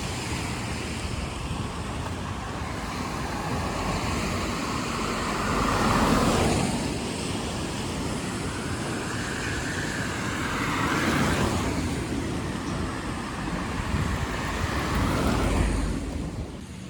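Road traffic on a wet street: cars pass one after another with a steady tyre noise that swells as each goes by, loudest about six, eleven and fifteen seconds in.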